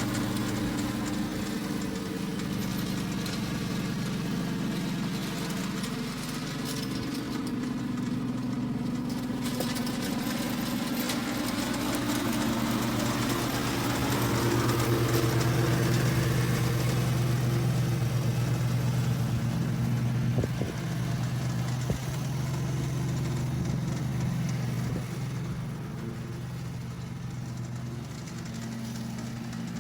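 Husqvarna R322T lawn tractor engine running steadily, its pitch and loudness shifting a little, with a brief sharp knock about twenty seconds in.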